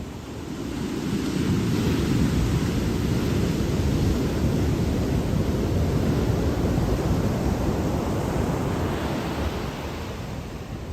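Ocean surf: a wave swells into a rushing wash about a second in, holds, and eases off near the end.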